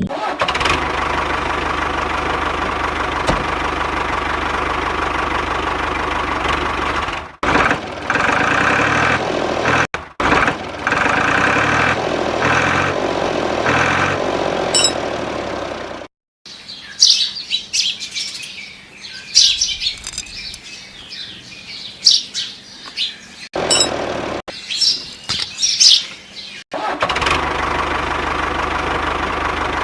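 A small engine running steadily, broken by short cuts, for about the first half. Then a stretch of high bird chirps, before the steady engine sound comes back near the end.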